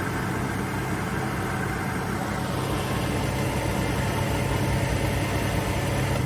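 Atlas Copco 3.7 kW oil-free scroll compressor running steadily under load with a low hum, building air pressure toward its 8.5 bar cut-out. It cuts off suddenly at the very end as it reaches pressure and shuts down.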